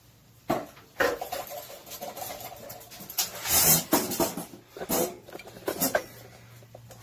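Irregular knocks, clunks and scrapes of a heavy engine part, the intake manifold, being lifted and set down during work on a 1968 Chevrolet pickup's V8; the loudest knock comes about three and a half seconds in.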